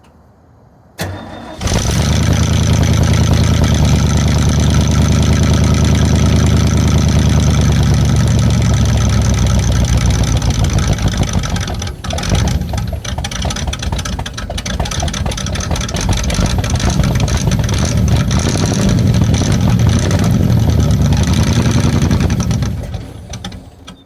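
1981 Ford F250's 5.8-litre 351M V8 cranking briefly and catching about a second in, running fast and steady, then from about halfway running rough and uneven before dying near the end. It runs badly from a vacuum leak, with only the fuel left in the carburettor bowl to run on.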